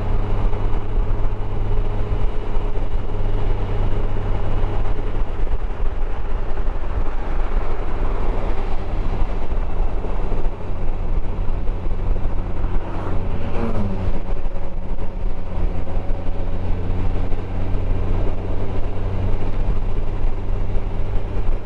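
Motorcycle engine running steadily at road speed over a constant rush of noise. About two-thirds of the way through, a brief tone falls in pitch.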